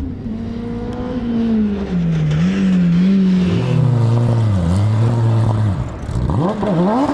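Rally car engine coming closer and getting louder, its revs stepping and swooping up and down with gear changes. Near the end the revs dip and then climb sharply several times in quick succession.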